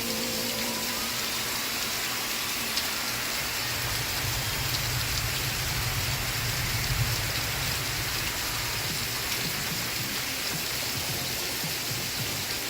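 Steady rain falling on a surface, an even hiss, with a low rumble rising under it about four seconds in and fading a few seconds later.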